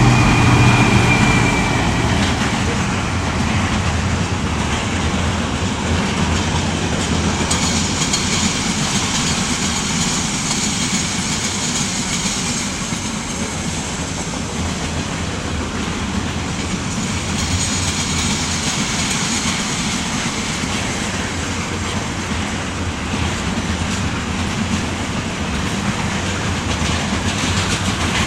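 Class 66 diesel-electric locomotive and its train running past, a continuous rumble of engine and wheels on rails. The engine note is loudest in the first couple of seconds, then gives way to a steady rolling noise.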